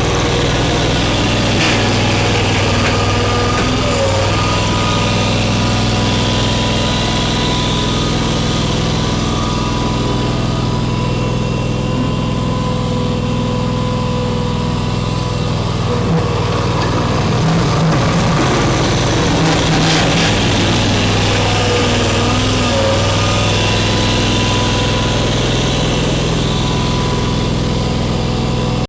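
John Deere X585 garden tractor's engine running at a steady speed, with small wavers in pitch as it works.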